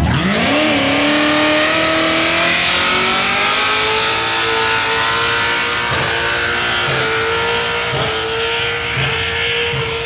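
Blown LS1 V8 of a 1949 Morris Commercial rat rod truck, with a 6-71 supercharger, revving up sharply in the first second and then held at high revs. The note climbs slowly, then holds steady with a few brief dips.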